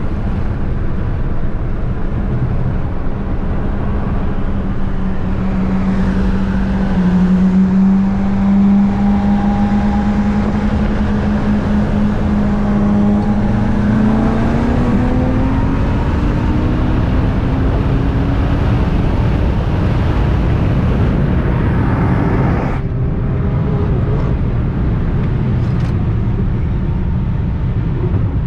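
Loud car engine with heavy road and wind rumble. The engine holds a steady note, then climbs in pitch about halfway through as it accelerates. The higher part of the sound cuts off abruptly about 23 seconds in, while the rumble carries on.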